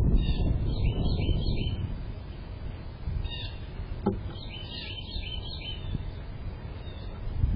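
A small bird chirping in quick runs of short notes, one near the start and another about halfway through, over a steady low rumble. A single sharp click comes about four seconds in.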